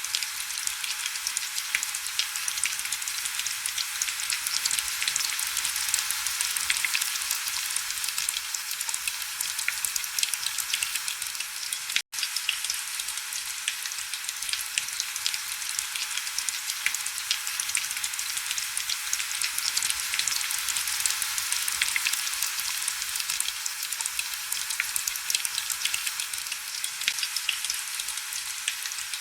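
Heavy rain falling on window glass: a steady hiss thick with fine drop ticks. It cuts out for an instant about twelve seconds in.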